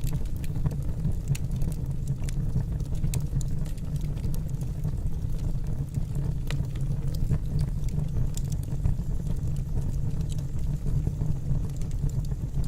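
Wood fire burning in a fireplace: logs crackling in scattered sharp pops and snaps over a steady low rumble of the flames.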